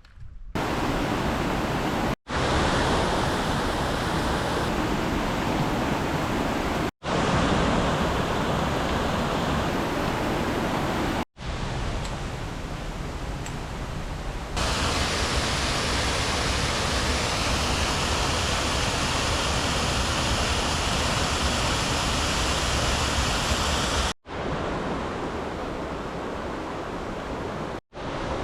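Waterfall rushing: a loud, steady roar of falling water. It breaks off abruptly at several cuts between clips.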